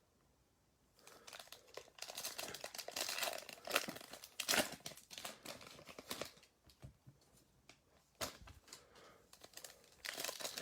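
Plastic trading-card pack wrappers being torn open and crinkled by hand, in irregular crackling rustles that start about a second in, are busiest in the first half and thin out before picking up again near the end.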